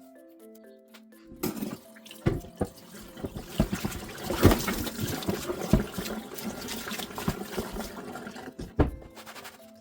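Water running, as from a tap into a sink, starting about a second in and stopping near the end, with several knocks and clatters along the way. Soft background music continues underneath.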